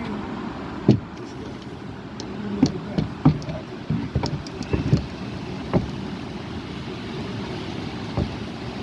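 Strong wind rumbling on the microphone, with about eight sharp knocks and clacks scattered through it.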